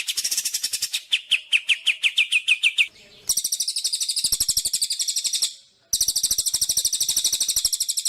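Songbird singing long runs of sharp, rapidly repeated notes at about ten a second: for the first three seconds each note sweeps down, then after a brief break comes a higher, thinner trill that stops shortly past halfway and resumes at once.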